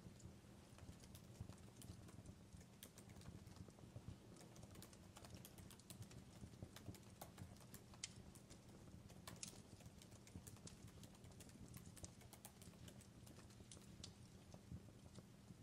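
Wood fire crackling in a fireplace: faint, irregular pops and snaps over a low steady rumble.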